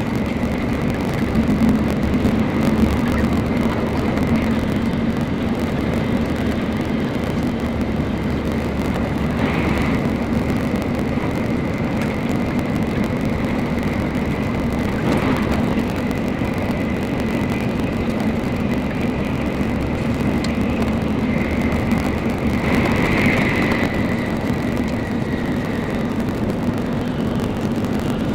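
Running noise inside a Shinkansen Nozomi bullet train at speed: a steady rumble with a thin high whine above it, swelling briefly a few times.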